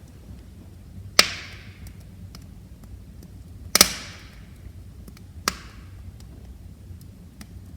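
Wood fire crackling in a fireplace. There are three loud, sharp pops, about a second in, near the middle and a little after, with fainter ticks between them and a low steady rumble underneath.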